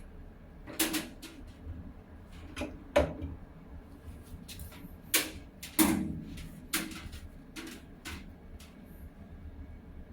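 Irregular clicks and knocks of hard objects being handled, about a dozen of them, the loudest about three seconds in and twice between five and six seconds in.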